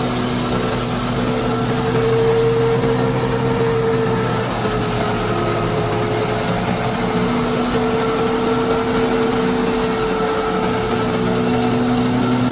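Small electric motor of a homemade toy tractor running steadily, its hum wavering slightly in pitch.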